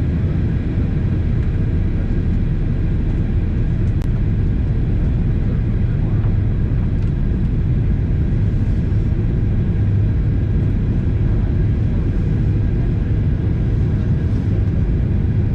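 Steady cabin noise of a Boeing 737-800 airliner in descent: a continuous low rumble of engines and airflow with no change in level.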